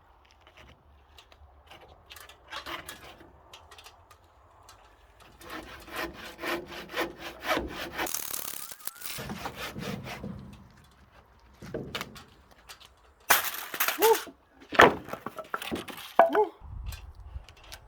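Handsaw cutting wood in a run of rapid back-and-forth strokes, followed by a few knocks and scrapes of wood being handled.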